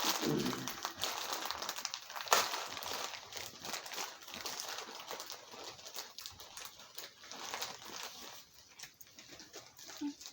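Plastic snack bag of kettle corn crinkling and popcorn being crunched, a dense irregular crackle with one sharper crack about two seconds in, thinning out toward the end.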